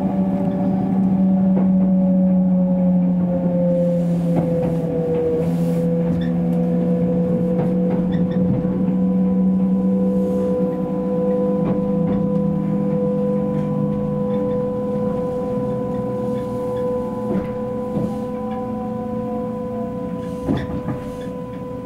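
Train heard from inside the carriage as it slows into a station: a steady hum and whine from its drive that drops in pitch as it brakes, with a few short clicks and a knock near the end.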